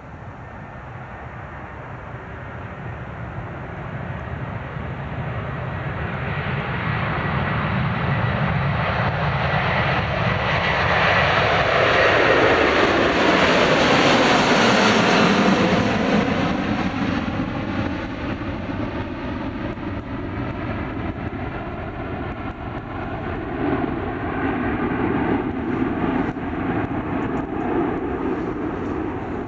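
Jet airliner passing close by on its take-off run: the engine noise builds, peaks about halfway through with its pitch dropping as it passes, then fades into a lower rumble.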